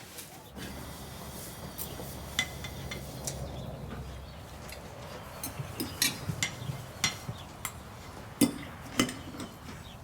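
Cutlery clinking and scraping against plates, scattered small clicks over a low background hum.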